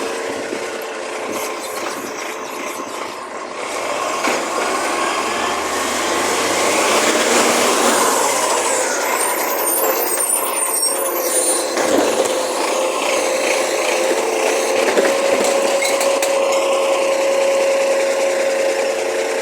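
Recycling garbage truck running, a steady mechanical whine over the engine noise, with a tone that rises and falls in pitch midway through.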